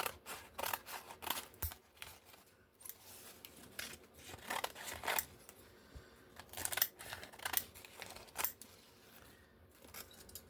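Scissors cutting a strong sheet of paper into long strips: irregular runs of snips with short pauses between them.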